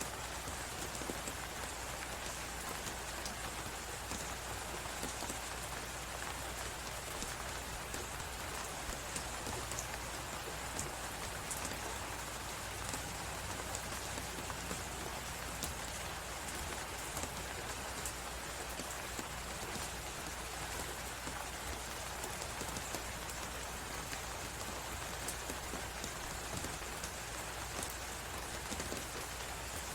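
Fireplace crackling with many small pops over a steady hiss of blizzard wind.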